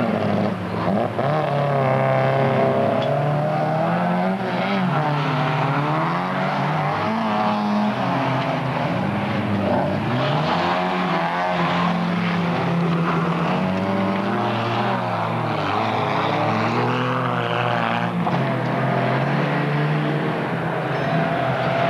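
Folkrace car engine running hard on a dirt track, its note rising and falling over and over as the driver works the throttle and changes gear through the corners.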